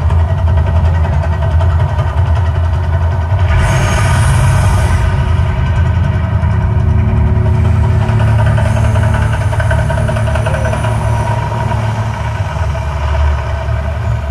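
Deep, steady low rumble from the Mirage volcano show's sound effects, with a brief burst of hiss about four seconds in.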